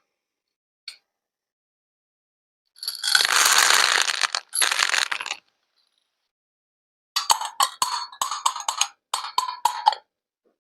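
A noisy rush lasting about two and a half seconds, then a quick run of small hard clinks and clicks, like small plastic or glass objects being handled and knocked together.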